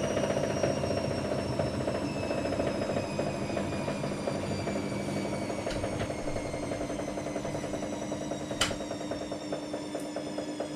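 AEG Lavamat Turbo washer-dryer running with a whine whose pitch falls slowly and steadily, the sound of the drum motor winding down after a spin. A single sharp knock comes a little before the end.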